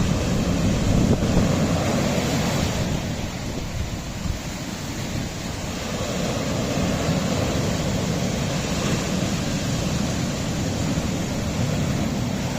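Sea waves washing against a rocky shore: a continuous rush of surf that eases slightly about four seconds in and builds again, with wind buffeting the microphone.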